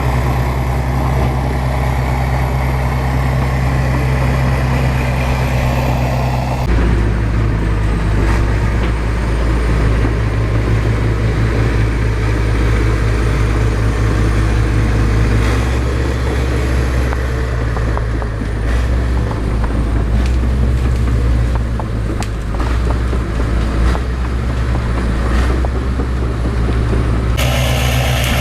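Bulldozer's diesel engine running steadily with a deep, even hum. Its pitch and tone change abruptly about seven seconds in and again near the end.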